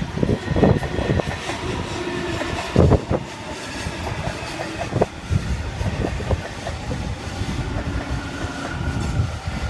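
Sydney Trains Waratah (A set) electric train running into the platform: a low rumble of wheels on rail with knocks over the joints and a faint high whine that sinks a little in pitch near the end.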